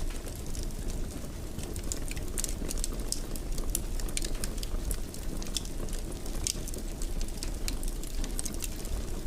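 Fireplace fire crackling: scattered, irregular sharp pops and snaps over a steady low rumble of the burning fire.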